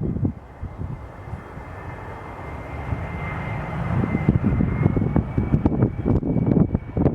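Boeing 737-300 jet airliner with CFM56-3 turbofan engines, landing and growing louder. A steady high engine whine runs over a low rumble and rises slightly in pitch about four to five seconds in.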